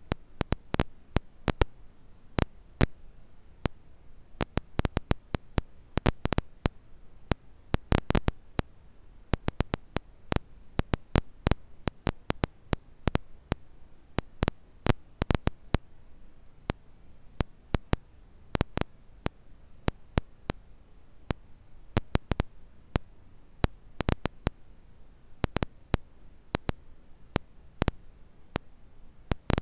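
Wood fire crackling: sharp, irregular pops and snaps, often in quick clusters, over a faint low hiss.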